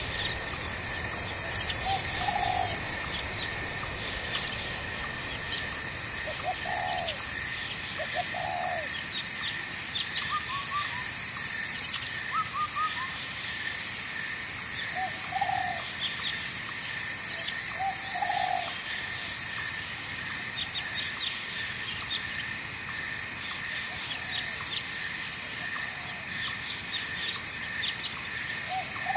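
Night forest ambience: a steady chorus of insects, some buzzing in pulses, with a short low call repeated every two or three seconds and a few higher chirps in the middle, over a faint wash of flowing water.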